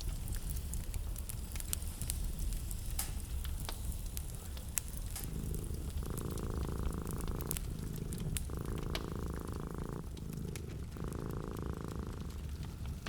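Wood fire burning in a fireplace: a steady low rumble with scattered sharp crackles and pops. From about five seconds in, a low rhythmic pulsing hum joins it, in three long pulses about two and a half seconds apart.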